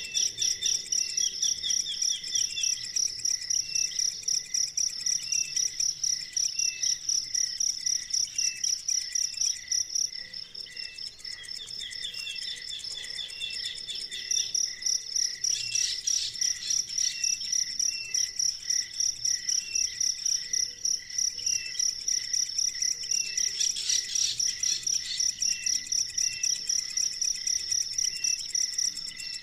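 A high-pitched insect chirp, cricket-like, repeating in a steady pulse about three times a second, breaking off for a few seconds about ten seconds in and then resuming. Fainter short chirping calls repeat underneath.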